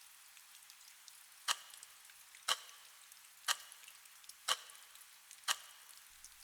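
Five sharp ticks, one a second, over faint steady rain: a countdown to the timer bell that marks the end of the break.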